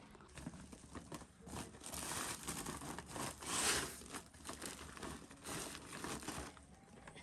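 Rustling and crinkling handling sounds in irregular bursts, the loudest a little past halfway.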